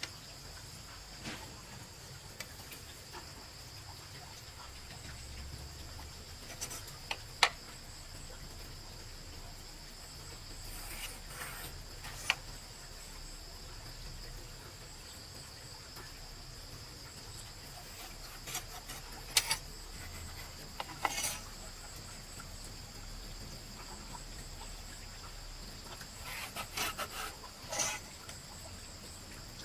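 Insects chirring in a steady, high-pitched drone. A few sharp knocks and short scraping clicks come now and then, mostly in the second half.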